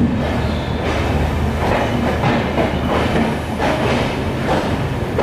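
Passenger train coaches rolling along a station platform, heard from an open carriage doorway: a steady rumble of wheels on rail with irregular clacks as the wheels cross rail joints.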